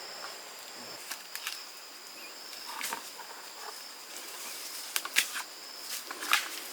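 Steady high-pitched drone of insects such as crickets or cicadas, with scattered sharp clicks and knocks, the loudest about five seconds in and again just after six seconds.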